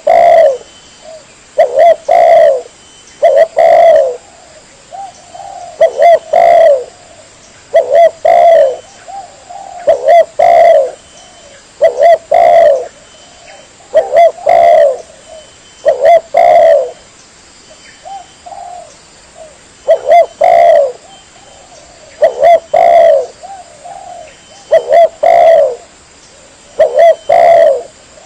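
Spotted dove (tekukur) cooing, played as a bird-trapping lure call: a short phrase of two or three low hooting notes, repeated about every two seconds.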